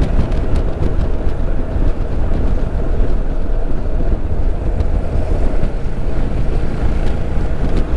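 Motorcycle on the move: a steady rumble of engine, road and wind noise on the microphone.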